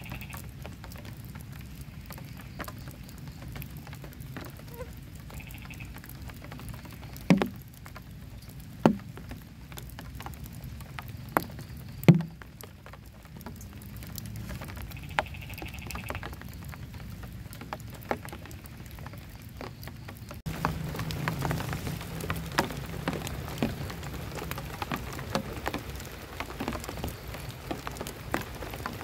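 Steady rain falling, with a few loud single drops striking close by. The rain grows louder about two-thirds of the way through.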